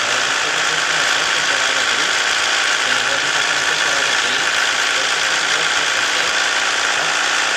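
Scania S 450 truck on the road: a steady engine drone mixed with road and wind noise, holding an even level.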